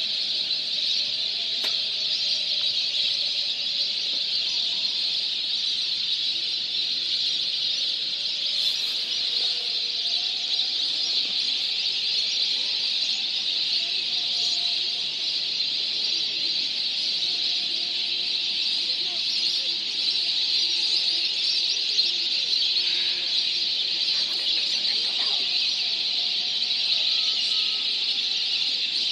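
Dense, unbroken chatter of a large flock of wintering migratory birds, thousands of high calls merging into one continuous din.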